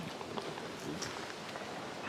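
Footsteps walking along an outdoor path, scattered light steps over a steady hiss of background noise.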